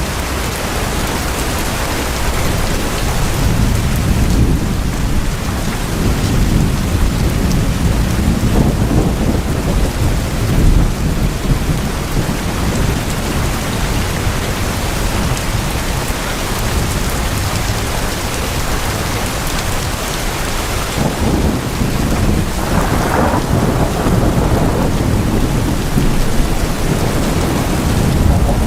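Heavy rain drumming steadily on tin roofs, with a deep rumble that swells and fades twice, typical of thunder.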